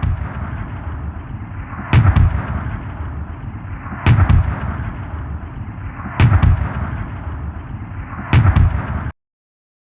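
Five heavy gunshot-like blasts, evenly spaced about two seconds apart. Each is a sharp double crack followed by a low rolling rumble. They cut off abruptly near the end.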